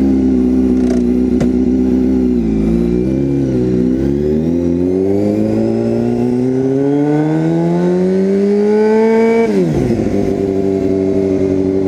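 Motorcycle engine running on a bike that hasn't been started in a while. Its note dips briefly about three seconds in, then climbs slowly for several seconds and drops sharply back to a steady note near the end.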